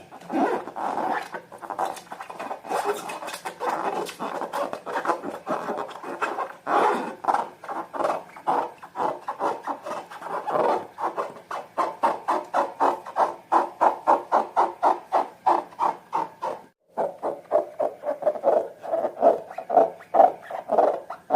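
Slime being squished and mixed by hand, giving a continuous stream of quick wet, sticky clicks and pops, with a brief break about three-quarters of the way through.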